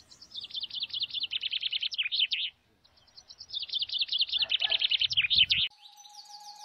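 A songbird singing two long phrases of rapid, repeated high notes, each about two and a half seconds long and growing louder. Near the end a steady tone comes in as background music starts.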